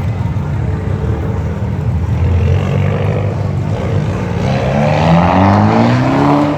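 Car engine running steadily, then revved about two-thirds of the way through, its pitch climbing steadily.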